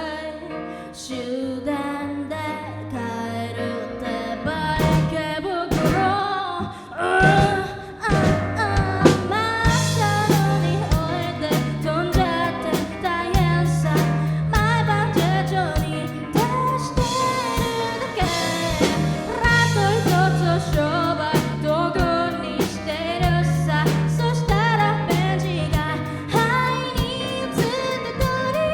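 Live band playing a pop-rock song with a lead singer over keyboard, bass and drums. A sparser opening builds, and the full band comes in about eight seconds in with a steady bass line and drum beat.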